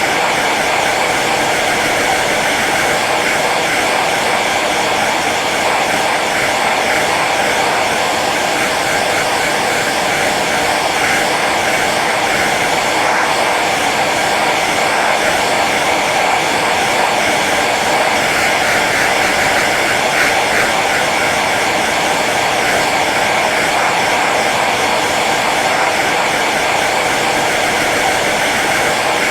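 Hair dryer running steadily on its low setting: an even, unbroken rush of blown air with a faint motor hum.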